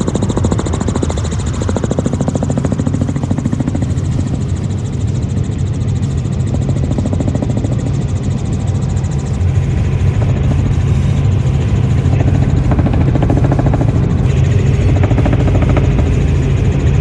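Helicopter engine and rotor noise: a loud, steady drone with a fast, even chop, getting a little louder about ten seconds in.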